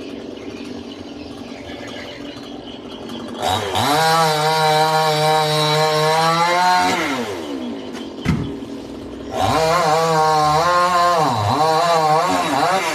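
Chainsaw idling, then run up to full throttle about three and a half seconds in and held for a few seconds before dropping back. After a single knock it is opened up again, and its pitch sags several times as it works through wood.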